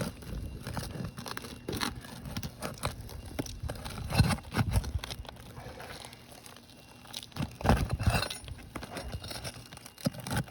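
Flat bar scraping and prying under old, brittle asphalt shingles, which crackle and tear, with louder knocks about four seconds in and again near eight seconds.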